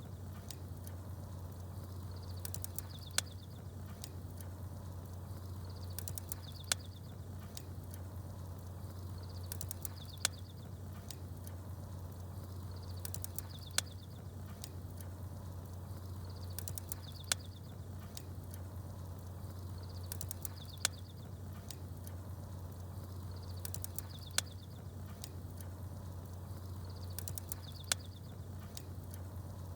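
Campfire with small birds chirping: a sharp pop about every three and a half seconds, each with a short burst of high chirps, over a steady low hum. The pattern repeats in an even cycle.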